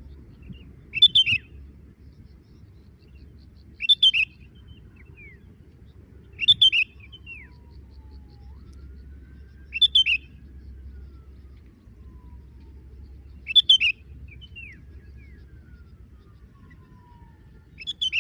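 Sooty-headed bulbul calling: six short, chirpy calls spaced about three to four seconds apart, the last right at the end, over a faint low background hum.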